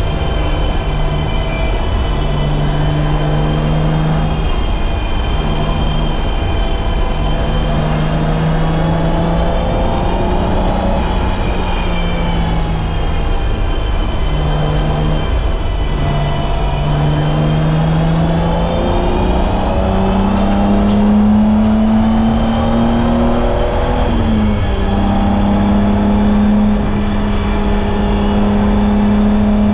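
BMW E30's M20B25 inline-six engine at racing speed, rising and falling in pitch with short breaks as the driver lifts and changes gear. The pitch climbs through the later part, drops sharply once about four-fifths in at a gear change, then holds higher and steady.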